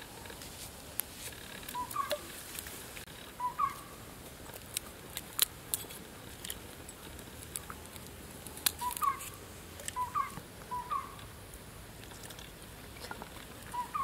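Short chirping bird calls, each with a quick upward flick, coming in twos and threes, with a few sharp clicks and taps in between.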